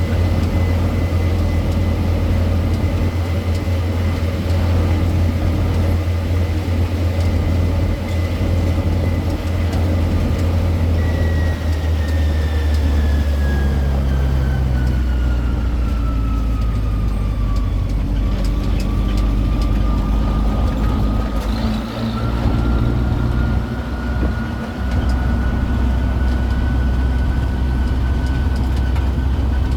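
Engine of a road tourist train running steadily with a strong low drone, and a high whine that slowly falls in pitch and then rises again about halfway through.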